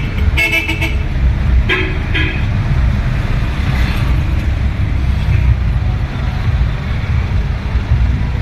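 Road traffic: several short vehicle horn toots in the first two and a half seconds, over a steady low rumble of engines and road noise.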